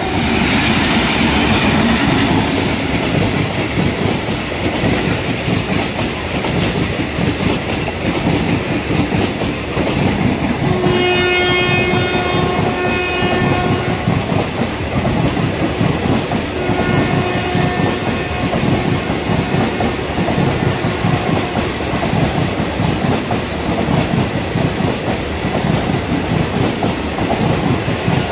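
Electric locomotive towing the Train 18 trainset past at speed: steady rumble and clickety-clack of wheels over the rail joints. A horn sounds for about two seconds roughly eleven seconds in, and again more faintly a few seconds later.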